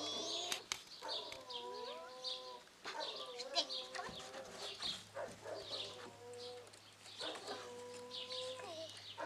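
Birds chirping over and over, with drawn-out calls held on one pitch recurring every second or two, and one sharp knock about three and a half seconds in.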